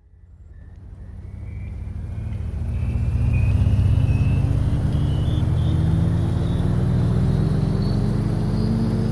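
Vacuum cleaner switched on, its motor whine rising slowly and steadily in pitch as it spins up, growing louder over the first few seconds.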